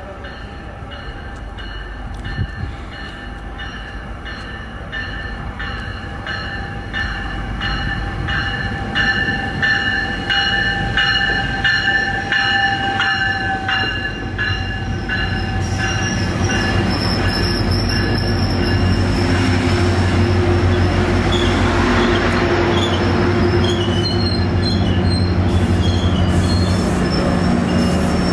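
Metrolink commuter train pulling into the station. For the first half a high ringing pulses at an even pace as it approaches. Then the coaches roll past with a rising rumble and a thin, high wheel and brake squeal as the train slows to a stop.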